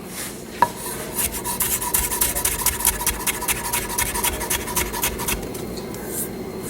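A knife blade drawn fast across a sharpener in rapid rasping strokes, about six a second, over a thin metallic ring. The strokes stop about five seconds in.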